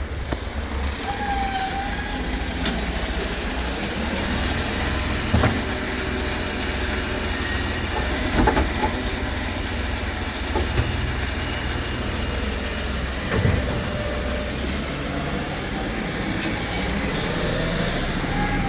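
Automated-arm rubbish truck running with a steady low engine rumble. Four sharp clunks come a few seconds apart through the middle.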